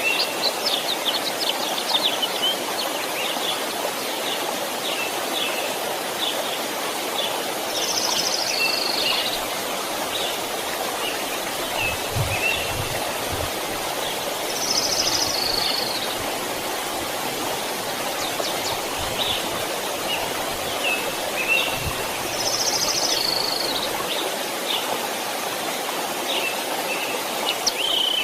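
A small stream flowing steadily while birds chirp over it; one bird repeats the same short song phrase about every seven seconds, three times.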